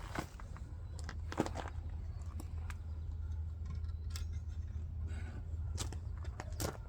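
Scattered light clicks and taps of plastic door trim pieces and clips being handled and pressed into place, at irregular intervals over a steady low hum.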